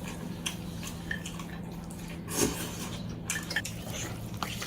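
Scattered soft clicks and clinks of tableware during a meal, with one slightly louder knock about halfway through, over a steady low hum.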